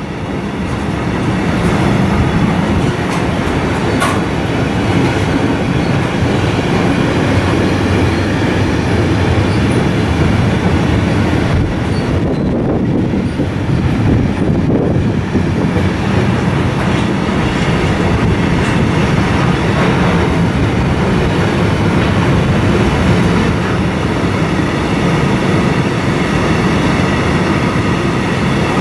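Container wagons of a freight train rolling past close by: a steady, loud rumble of steel wheels on the rails that keeps on without a break.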